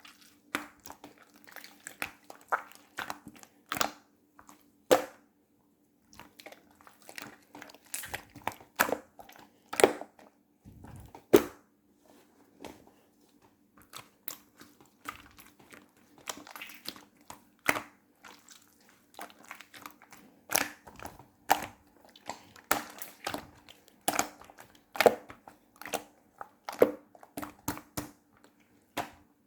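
Slime being pressed and squished by hand, making sharp, irregular clicking pops and crinkly crackles. A faint steady low hum runs underneath.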